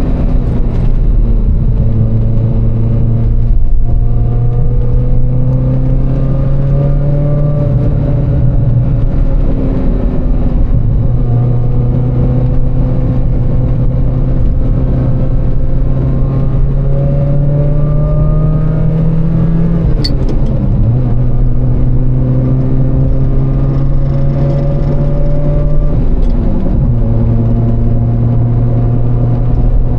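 Ferrari F355's 3.5-litre V8 engine under way, its pitch climbing slowly as the car gathers speed, then dropping sharply at a gear change about a third of the way in, again about two-thirds in and once more near the end.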